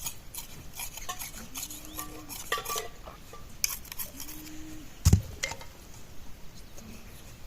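Metal pots and utensils clinking and knocking in irregular, scattered strikes, with one heavy thump about five seconds in.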